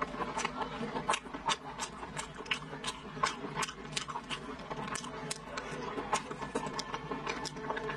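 Close-miked chewing of a mouthful of red-braised pork belly: an irregular run of mouth clicks and smacks, about three or four a second.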